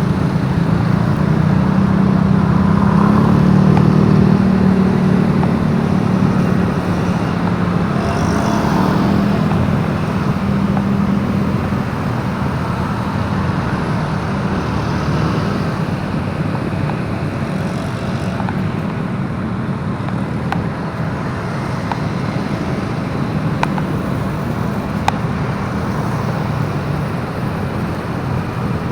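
Motorbike riding in road traffic: a steady engine drone with road noise, a little louder over the first ten seconds and then even.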